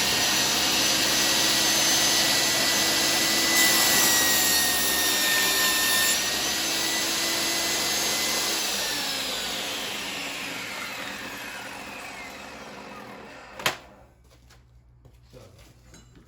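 Kobalt 10-inch worksite table saw running at full speed with a steady high whine while ripping a 2-inch strip off a board for a few seconds. It is then switched off and spins down, its whine falling in pitch and fading away, followed by a single sharp knock.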